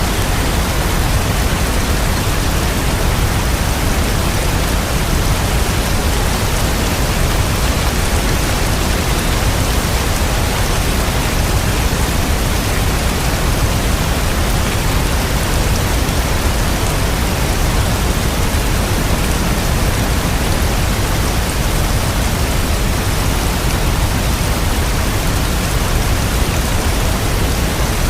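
Steady rain falling, an even hiss of dense drops with no distinct individual hits.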